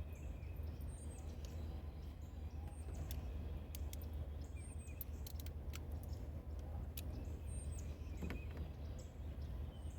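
Quiet outdoor background: small birds chirping faintly over a steady low hum, with a few light clicks scattered through.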